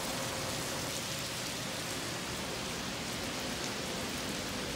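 Heavy rain falling steadily onto paving and rooftops, an even hiss with no breaks.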